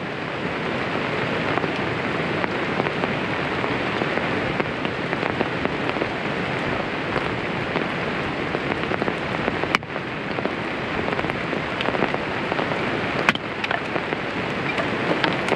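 Steady rain falling on an umbrella overhead, with two sharp taps in the second half.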